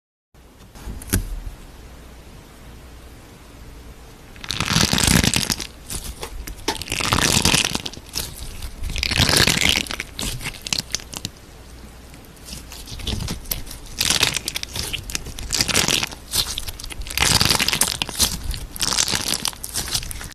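Slime being squeezed and pressed by hand, in repeated crackling bursts roughly every two seconds, with a single sharp click about a second in.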